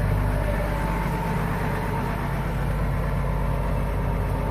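Tractor engine running steadily at idle: an even low drone with a faint steady whine above it.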